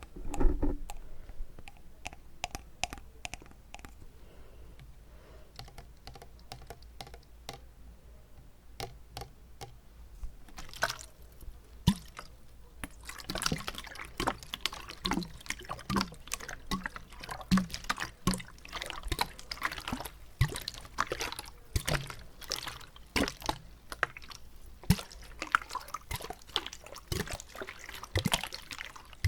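Water bottle being tapped and handled, with water sloshing inside. There is a low thump at the start, then sparse taps, and from about 13 seconds in dense, rapid tapping and crackling.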